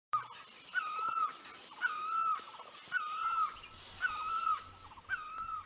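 A bird calling five times at an even pace, about one call a second.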